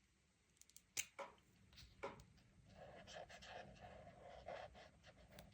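Faint coloring on a paper page: a few light clicks and two sharp taps about one and two seconds in, then steady scratchy stroking of the coloring tool across the paper from about halfway until just before the end.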